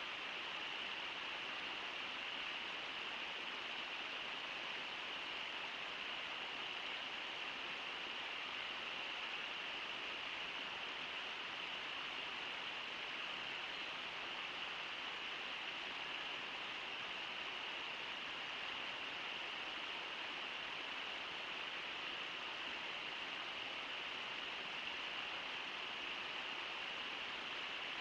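Steady rush of the Brooks River pouring over Brooks Falls, an even hiss of water that does not change.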